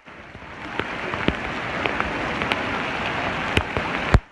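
Steady heavy rain hissing down, with a few sharp taps of drops scattered through it. The sound comes back in from near silence over the first second.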